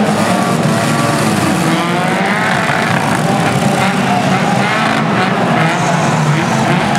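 A pack of banger-racing cars' engines revving together, their pitch rising and falling as they race and jostle round the oval.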